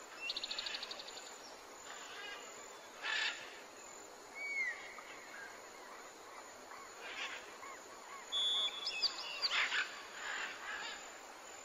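Several birds calling: a fast trill at the start, then scattered chirps and short whistled notes, with a few brief hissy bursts between them.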